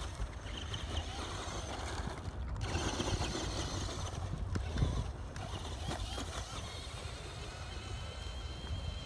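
ECX AMP Desert Buggy, an electric radio-controlled car, driving over dirt and gravel: tyre and chassis noise with scattered small knocks and clicks over a steady low rumble, and a thin wavering whine toward the end.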